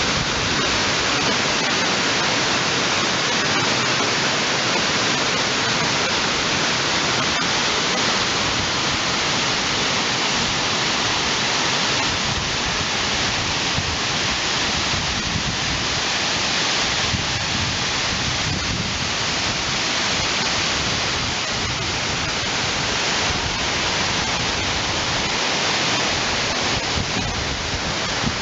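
Waterfall: the steady, even rush of falling water, unbroken throughout.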